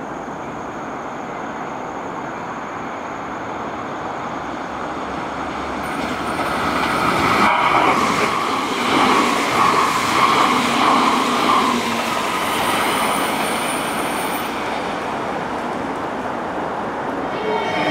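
JR Kyushu 885 series electric express train passing: the rumble of its wheels on the rails builds as it approaches, is loudest about halfway through as the cars go by, then fades as it moves away.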